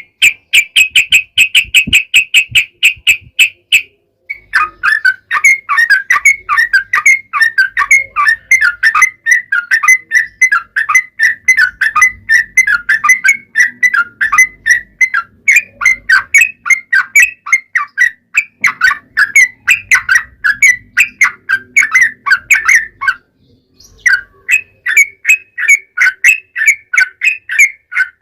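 Yellow-vented bulbul (trucukan) singing its long rolling song: fast strings of chirpy notes repeated without pause, broken by two short gaps, about four seconds in and near the end.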